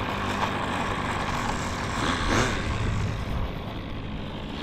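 Model aircraft engine running: a steady rushing hiss with a brief swell about two seconds in.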